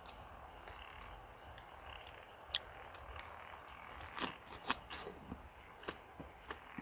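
Eating sounds of a leafy ssam wrap of boiled lamb being bitten and chewed close to the microphone: a couple of soft clicks, then from about four seconds in a run of short, sharp wet crunches and crackles.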